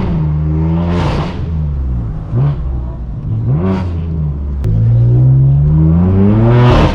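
Straight-piped BMW M4 F82's twin-turbo inline-six revving hard under acceleration, its pitch climbing and then dropping sharply at each upshift: once at the start, again about a second in, and after a long climb near the end, with the revs wavering up and down in between.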